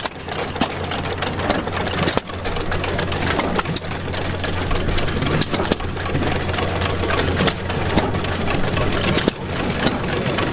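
Antique gas engine running: a steady low drone with frequent sharp clicks and pops.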